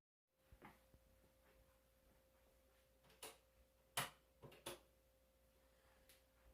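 Near silence: faint room tone with a thin steady hum and a few faint ticks past the middle.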